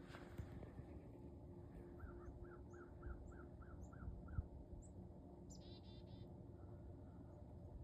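Faint birdsong: a run of about eight quick, evenly spaced chirps, scattered high single chirps, and a short buzzy call near the end. A single thump about four seconds in, over a faint steady hum.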